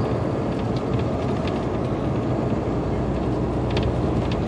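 Steady low rumble of a semi-truck's engine and road noise heard from inside the cab while driving, with a few faint ticks.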